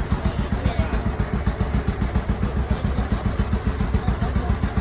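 Tractor engine running steadily, with an even low chugging beat.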